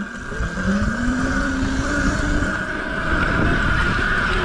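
Mini bike's small engine revving up and getting louder over the first second, its pitch climbing, holding, then easing off about halfway through.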